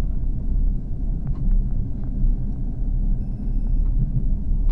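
Long-distance passenger train running, heard from inside the carriage as a steady low rumble with small clicks and rattles while it slows into a station. A faint high tone sounds briefly about three seconds in.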